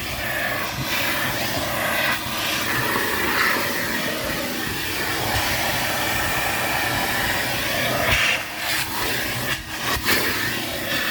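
Car wash vacuum running steadily with a continuous rushing suction noise.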